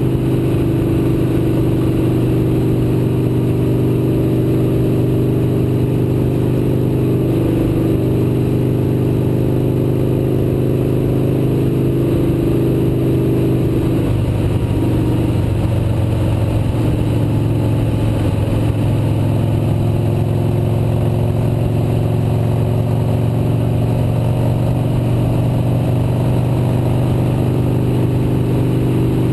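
Motorcycle engine running steadily at cruising speed over wind and road noise, its note shifting about halfway through and settling again near the end.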